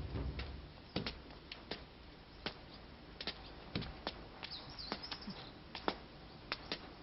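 Faint birdsong: sparse, short chirps scattered irregularly over a quiet background.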